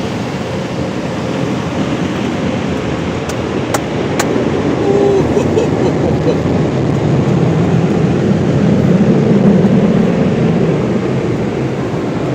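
MacNeil soft-cloth tunnel car wash equipment running: a steady rushing noise that grows louder about four seconds in, with a few light clicks around three to four seconds in.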